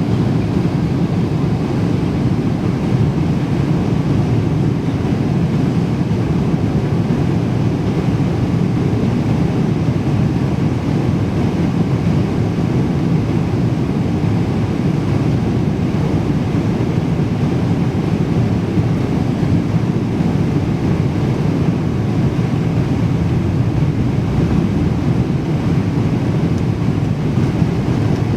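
Steady, even jet-airliner cabin noise, the low rumble of the engines and the rushing air heard from inside the cabin in flight.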